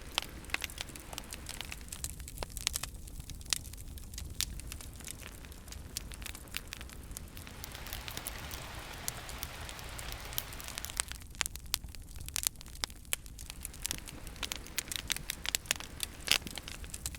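Wood campfire crackling, with frequent sharp pops and snaps over a steady low rumble of flames. A stretch of hiss comes in about halfway through, and the pops come thicker again near the end.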